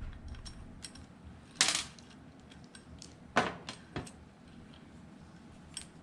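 Small metal clinks and taps from handling the ceiling fan's metal parts and tools, with louder clinks about one and a half, three and a half and four seconds in.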